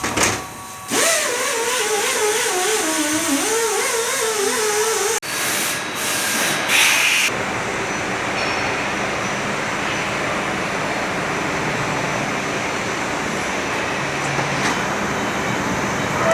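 Steady machinery noise of a factory floor. A wavering, high whine rises and falls over the first few seconds, and the sound changes abruptly twice before settling into an even, steady drone.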